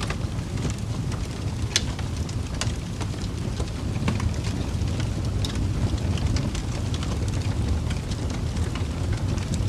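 Wood fire burning in a fireplace: a steady low rumble of the flames with scattered sharp crackles and pops, the loudest pop about two seconds in.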